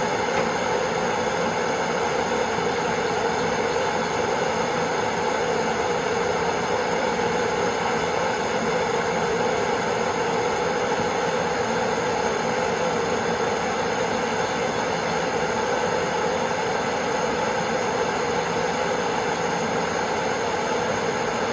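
Gas torch flame burning with a steady, unbroken hiss, heating the metal.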